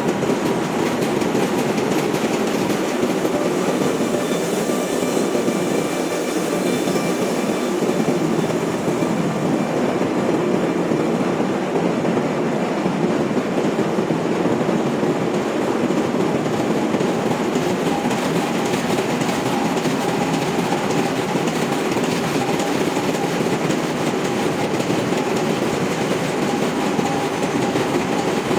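Steady engine-room machinery noise from a ship: a dense, even din with a few faint steady tones running through it.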